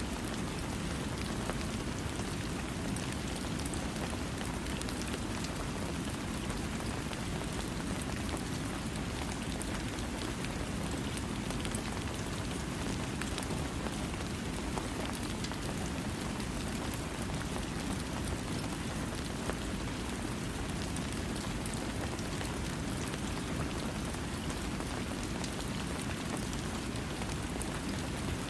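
Steady rain falling, an even hiss with a fuller low rush and fine scattered drop ticks, without thunder.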